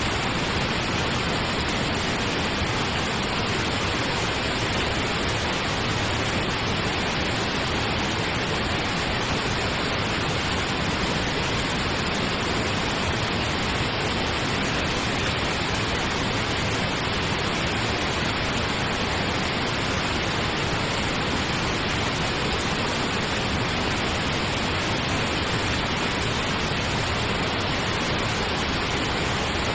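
Steady, unchanging pink noise, an even hiss with no events or changes.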